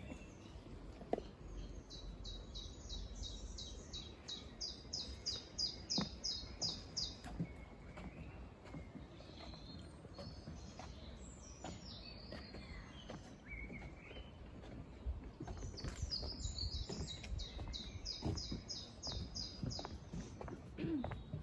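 A songbird singing long phrases of high notes repeated about three times a second, one phrase a couple of seconds in and another after about 16 seconds, with other short bird calls between.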